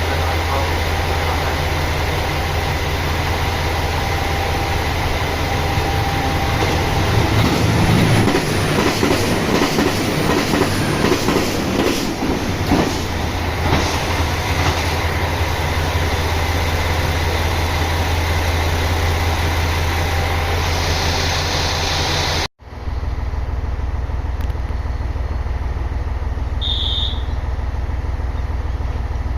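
Diesel train passing at a station: a steady engine hum, with wheels clacking over rail joints in the middle. Near the end it cuts suddenly to a quieter steady engine hum.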